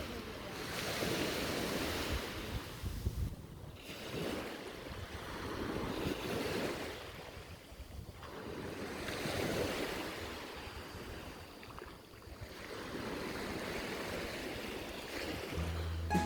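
Sea waves washing onto the shore, the surf swelling and fading about every four seconds, with some wind on the microphone.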